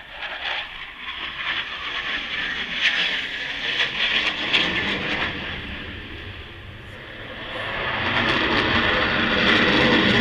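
Aircraft engine noise, a rushing sound without speech that eases off around the middle and grows louder again toward the end.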